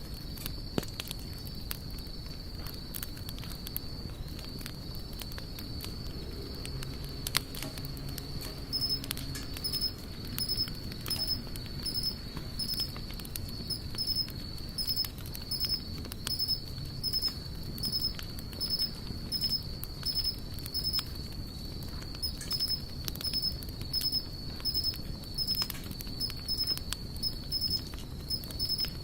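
Campfire burning with scattered crackles and pops over a low rumble of the flames. A steady high insect trill runs behind it, and from about nine seconds in a rhythmic insect chirp repeats about one and a half times a second.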